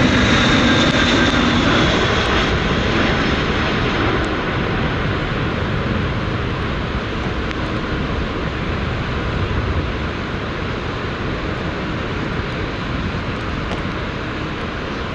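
Jet airliner's engines close by. A thin whine in the engine noise fades out in the first couple of seconds, then the noise slowly dies away as the aircraft moves off.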